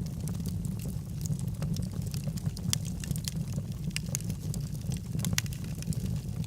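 Wood fire burning in a fireplace, logs crackling with frequent irregular sharp pops over a steady low rumble of the flames.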